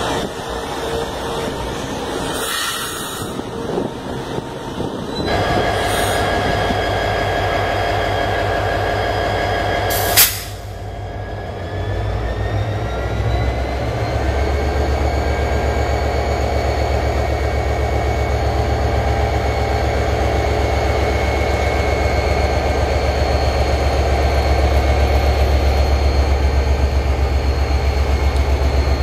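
An electric metro or commuter train running past a station platform, with a steady whine joining in about five seconds in. After a sharp click about ten seconds in, a diesel freight locomotive passes close by: its engine gives a deep, steady drone that slowly grows louder, with a faint whine rising and then holding.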